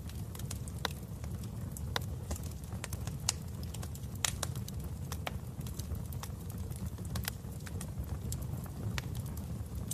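Wood fire burning in a fireplace: a steady low rumble of flames with irregular sharp pops and crackles of burning logs.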